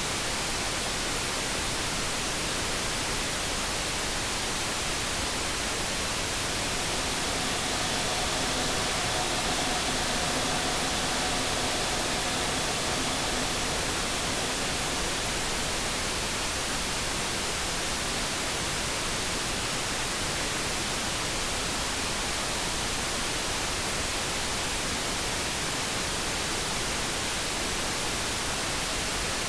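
Steady light brown noise: an even, unbroken hiss. About seven seconds in, a faint electric-kettle hum of a few steady tones fades in under it, then fades out again after about nine seconds.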